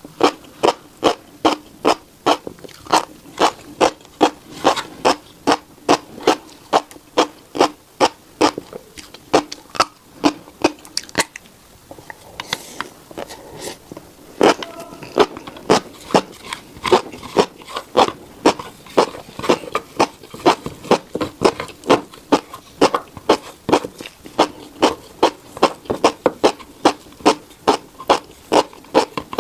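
Close-up chewing of a mouthful of tiny black seeds, with sharp, regular wet mouth clicks at about two to three a second. The chewing pauses for a couple of seconds near the middle, then carries on.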